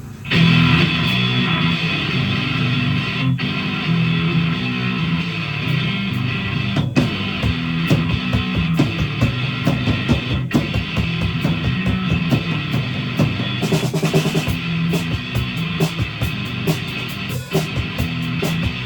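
Live rock band playing an instrumental intro: electric guitar and a drum kit keeping a steady beat, starting abruptly.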